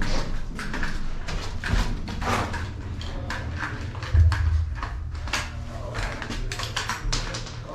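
Footsteps with clicks and rattles of carried airsoft gear, close to a body-worn camera microphone, coming about two or three a second, over low rumbling handling noise. A heavier thump comes about four seconds in.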